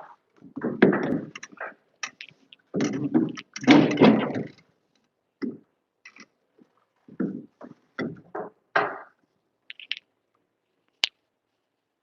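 Irregular knocks, scrapes and rustles of hands-on work handling wiring and tools, with a sharp click about eleven seconds in.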